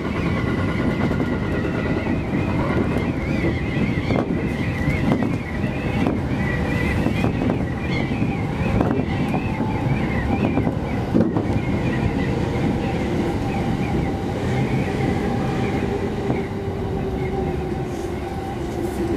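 Electric commuter train running, heard from inside the driver's cab: a steady rumble of wheels on rail with a few sharp clicks. Over the last few seconds a whine slowly falls in pitch as the train slows into a station.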